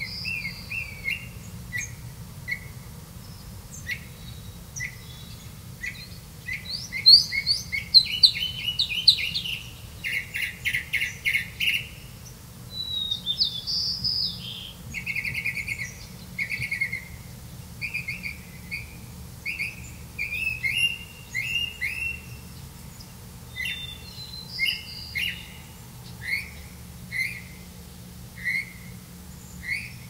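Small birds chirping: a long string of short, high chirps, some coming in quick rapid runs, over a faint steady low hum.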